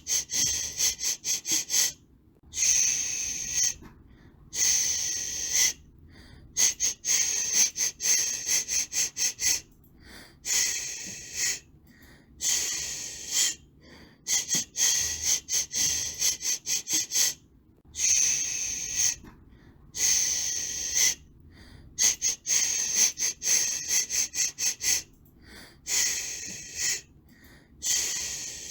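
Baby-soothing white-noise track: a bright hiss, broken into irregular bursts of a fraction of a second to about a second and a half, with short silent gaps between them.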